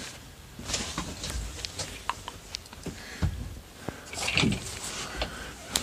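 Scattered clicks and knocks with some rustling as an overhead storage compartment in a truck cab is handled, a sharp knock about halfway through and another near the end.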